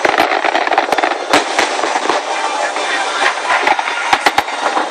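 Aerial firework shells bursting in a rapid, irregular string of sharp bangs, a few each second, over a continuous crackling hiss.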